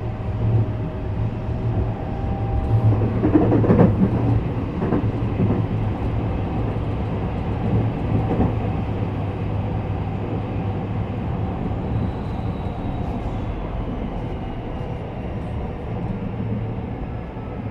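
Sound inside a JR West 321 series electric commuter train around a station stop: a steady low hum, with a louder burst of noise about four seconds in.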